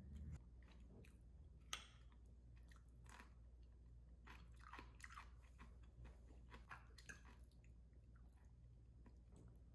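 Faint chewing and crunching of food, in irregular short bites, with one sharper crunch just before two seconds in.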